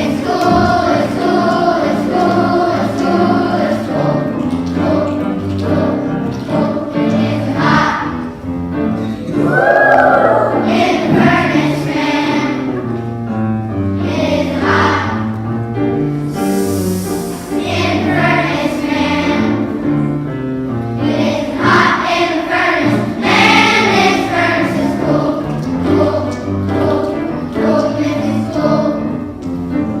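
A children's choir singing a song together, with instrumental accompaniment.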